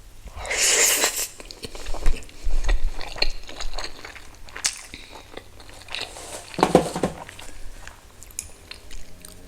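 A person eating close to the microphone: wet chewing and biting with many small clicks, and two louder bites or mouthfuls, one just under a second in and one about seven seconds in.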